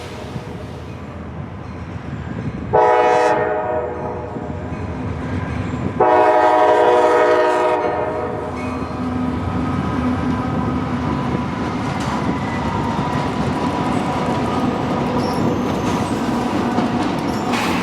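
Diesel freight locomotive horn sounding a short blast, then a longer one about three seconds later. After that comes the steady rumble and clickety-clack of the train rolling past.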